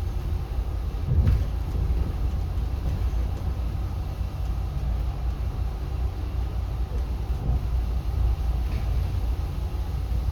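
Low, steady rumble of a city bus driving, heard from inside the passenger cabin, with a brief knock about a second in.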